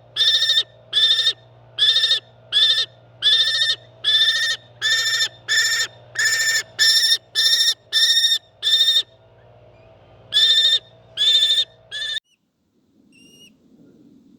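A bird of prey calling loudly and repeatedly, about two calls a second, each roughly half a second long. After a short pause come a few more calls, then the sound cuts off abruptly, leaving only faint, short high chirps.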